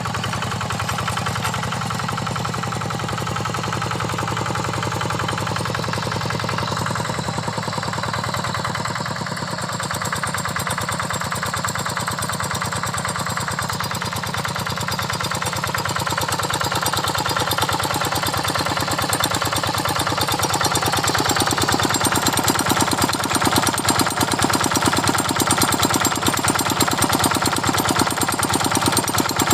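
Single-cylinder diesel engine of a Quick Impala hand tractor running steadily under load while working a paddy field, with a fast, even knocking beat; it grows louder in the second half.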